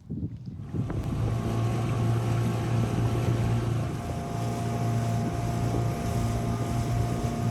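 Dinghy outboard motor running steadily under way, with a steady drone and wind noise on the microphone.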